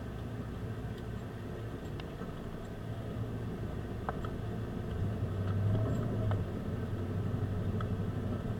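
Car driving, with a steady low engine and road hum that swells for a second or two past the middle, and a few faint clicks.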